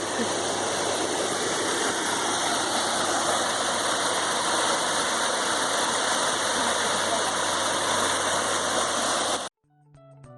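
Steady rush of a river waterfall, cutting off abruptly about nine and a half seconds in. A guitar tune starts faintly near the end.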